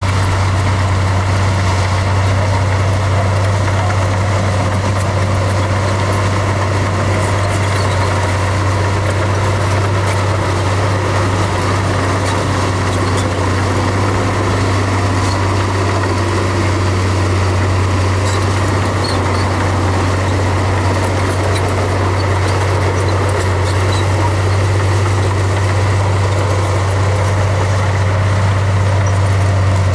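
Bulldozer's diesel engine running steadily, a deep low drone with no revving.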